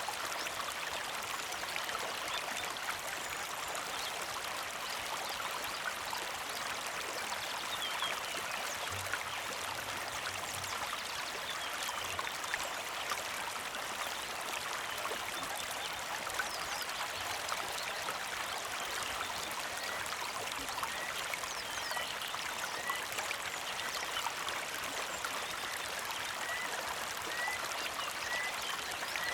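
A creek flowing and trickling steadily over stones. In the second half, a bird gives short, high chirps about once a second.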